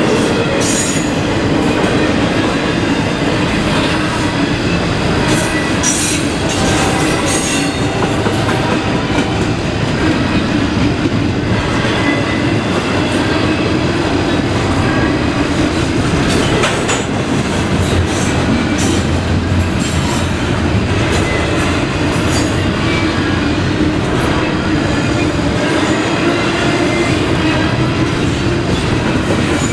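Freight train cars rolling steadily past at close range: a continuous rumble of steel wheels on rail, with repeated clicks over rail joints and some wheel squeal.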